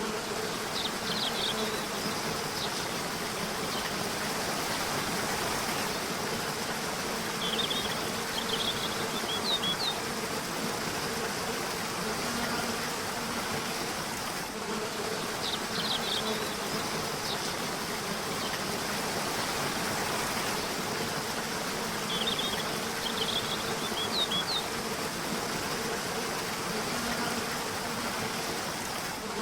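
Steady rushing water of a river with a low buzzing insect hum that swells and fades. Birds chirp in short high bursts several times.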